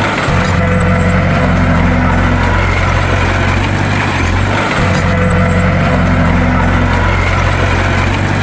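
Bulldozer's diesel engine running steadily with a low drone that dips briefly and swells again about every four and a half seconds.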